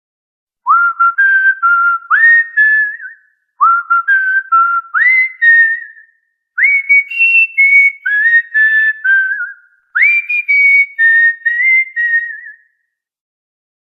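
Cockatiel whistling a short melodic tune four times over, with brief pauses between the phrases. Each phrase is a run of clear notes, each note sliding up quickly and then held.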